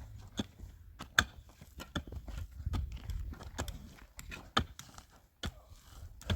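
Irregular clicks and knocks, like objects being handled, with a couple of sharper knocks about a second in and again past four seconds, over a low rumble.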